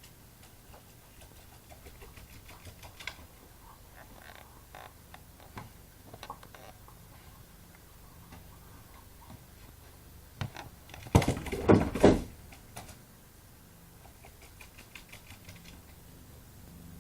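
Scattered light taps and scrabbling on a hard surface, then a loud burst of knocks and clatter lasting about a second, around eleven seconds in.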